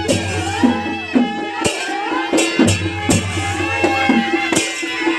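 Nepali panche baja (naumati baja) band playing a folk tune: a reedy shawm melody that bends and slides in pitch over steady drumming, with regular sharp drum and cymbal strikes.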